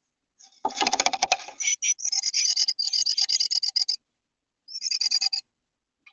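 A small songbird giving rapid, high chattering calls in bursts at a nest box, with a scratchy rustle of movement about a second in.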